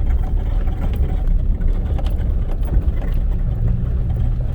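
Off-road vehicle driving on a dirt trail: a steady low engine and road rumble. A steadier engine hum settles in near the end.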